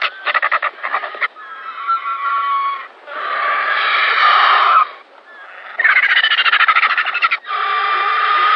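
Griffon vulture calling: harsh, rasping calls alternating with bursts of rapid rattling chatter, with a short break about five seconds in.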